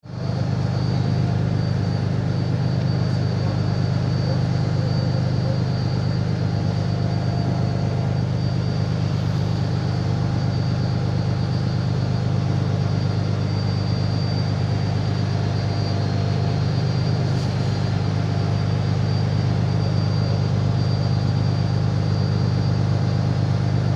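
Ferry's engines droning steadily at a constant pitch, with a faint steady high whine above the low drone.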